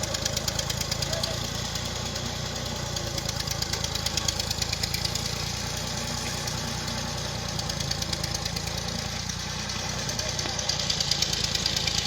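Tractor engine running steadily with a rapid, even clatter, growing louder about four seconds in and again near the end.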